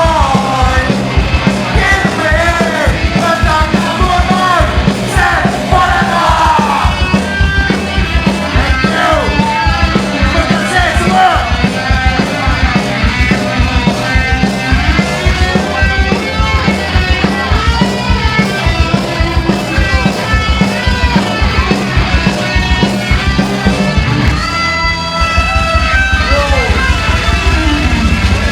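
Live punk rock band playing a fast song, drums driving an even beat under distorted guitars, with yelled vocals in the first part and a falling pitch slide near the end.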